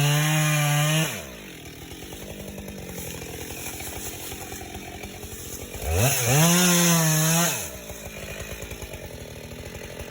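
Two-stroke Husqvarna chainsaw at full throttle, dropping to a pulsing idle about a second in. About six seconds in it revs up again, holds high for over a second, then falls back to idle.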